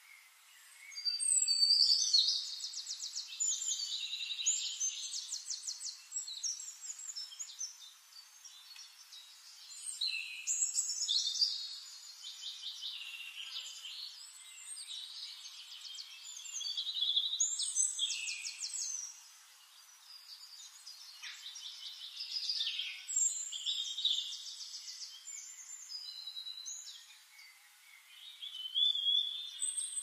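High-pitched bird chirping with rapid buzzy trills, coming in bouts of a few seconds with short lulls between.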